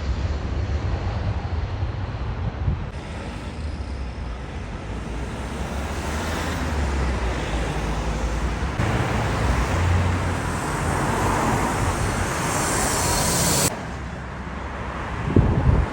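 Jet airliner engine noise on landing approach, a rumble with a rising hiss that grows louder, then cuts off abruptly about three-quarters of the way through, with wind rumble on the microphone.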